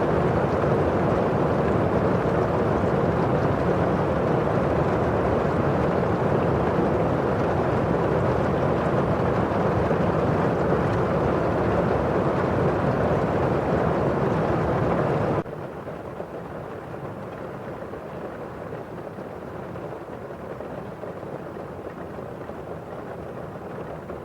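Steady rain falling on a window pane, a dense, even hiss. About two-thirds of the way through it cuts suddenly to a quieter, more muffled rain.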